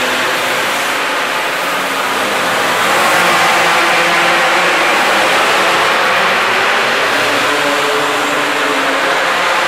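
Minibike engine running loud and steady, its pitch drifting up and down a little as the throttle changes.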